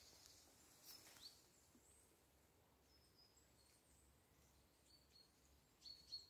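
Near silence, with a few faint, short, high chirps from birds.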